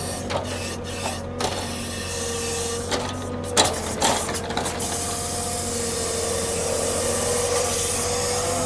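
Heavy machinery unloading logs from a log truck: a steady, slightly wavering whine over a hiss, with several sharp knocks and clunks in the first half.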